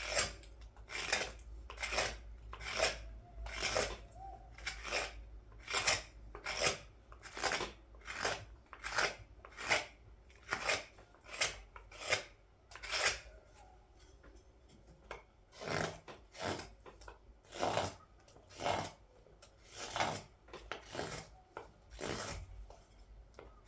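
Large scorp cutting into the green-wood bowl of a scoop: short scraping strokes at a steady pace of a little more than one a second, pausing briefly a little past the middle and then going on. The cuts run smooth now that the groove has been established.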